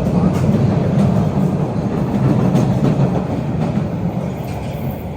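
MBTA subway train passing on rails: a loud rumble of wheels on track with scattered clicks as the wheels cross rail joints, slowly fading as it moves away.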